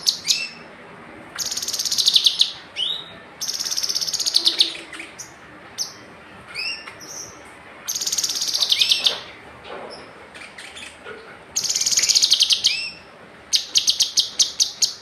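A kinoi songbird singing in loud bursts of rapid, high trilled notes, about five in all, each lasting about a second. Short upward-sweeping whistled notes come between the bursts.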